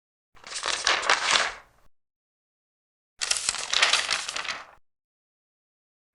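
Two large paper pages turned one after the other, each a crisp rustle and crinkle of about a second and a half, the second starting about three seconds in.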